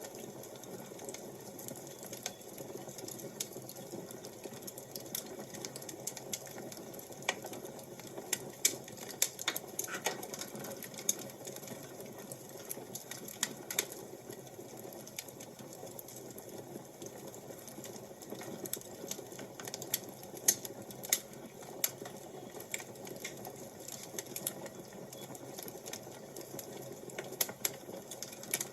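Fire crackling: a steady low rush dotted with irregular sharp pops and snaps, a few of them much louder than the rest.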